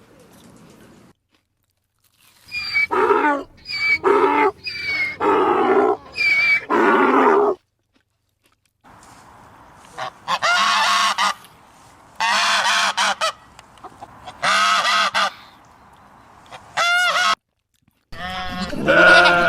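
Repeated loud animal calls, each up to about a second long: five in quick succession, then after a short break four more, spaced about two seconds apart.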